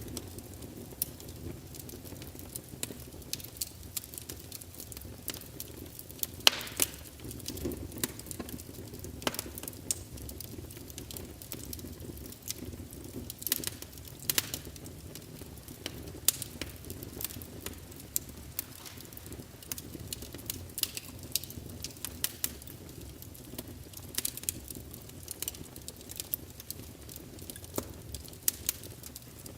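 Wood fire burning in a fireplace: irregular crackles and sharp pops from the logs over a steady low rush of flame, with a louder pop about six and a half seconds in.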